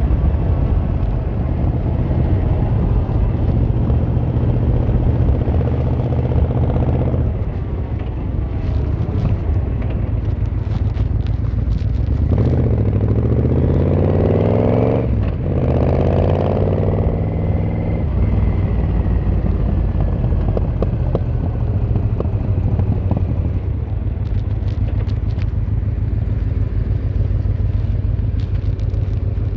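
Yamaha XVZ1300 Royal Star's V4 engine and exhaust while riding, running at a steady note. About halfway through, the revs fall and then climb again.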